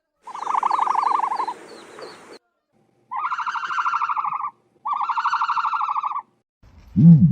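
Ostrich calls: three separate rapidly pulsing, mid-pitched calls of about one and a half seconds each, then a low, deep grunt beginning near the end.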